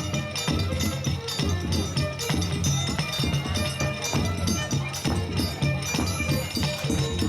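Reisado folk music played live: an even, repeated low drum beat with rattling percussion strokes on top.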